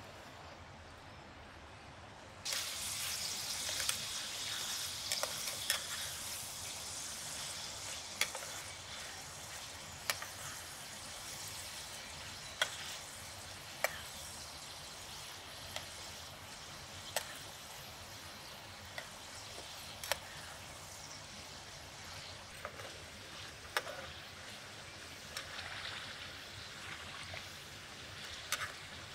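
Ground-meat kebab patties sizzling in oil in a metal frying pan over wood embers. The sizzle starts suddenly about two and a half seconds in, with a dozen or so sharp clicks of a metal spatula and fork against the pan.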